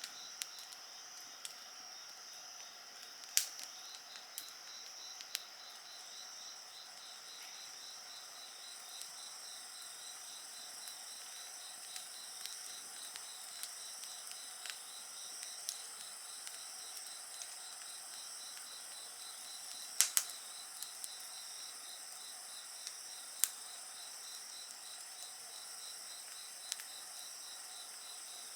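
Crickets and other insects singing steadily, one with a fast pulsing trill, while a wood fire crackles with scattered sharp pops, the loudest about 3, 20 and 23 seconds in.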